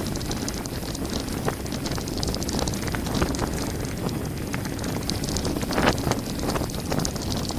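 Mountain bike descending a gravel forest road at speed: wind rushing over the microphone, with tyres on loose gravel and a steady scatter of clicks and rattles from the bike.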